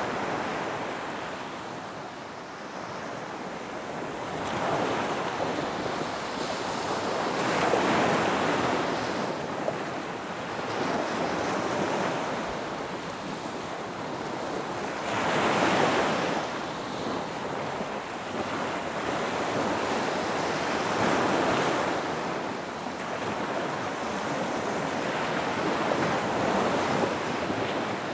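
Ocean surf breaking on a beach: waves swell and wash in one after another every few seconds, the loudest surges about a third and halfway through.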